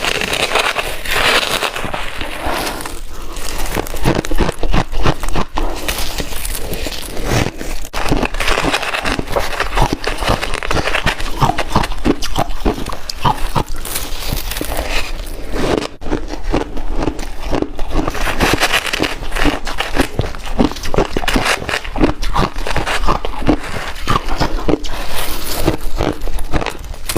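A person chewing ice close to the microphone: continuous loud crunching and cracking, many sharp irregular snaps as the ice breaks between the teeth.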